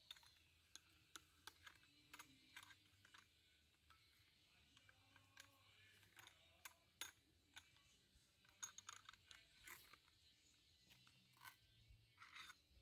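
Faint, irregular small clicks and crackles over near silence.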